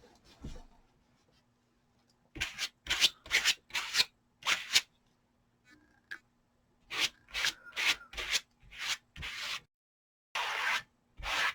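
A plastic card-style applicator scraping waterproofing gel (Odicoat) across fabric in quick repeated strokes, coming in bursts with short pauses between them and a couple of longer strokes near the end.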